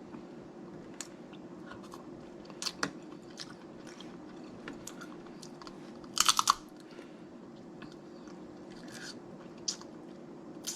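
Close-miked eating of snow crab legs: scattered clicks and cracks of shell with chewing, and a louder cluster of cracks about six seconds in, over a steady low hum.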